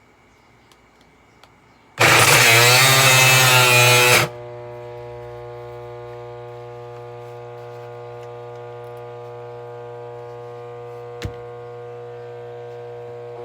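Eureka The Boss bagged vacuum cleaner switched on: a very loud burst with a wavering pitch for about two seconds, then it settles into a steady motor hum, with a single click near the end.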